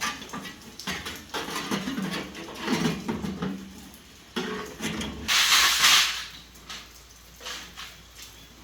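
Scattered knocks and clicks, then a loud hiss lasting under a second about five seconds in.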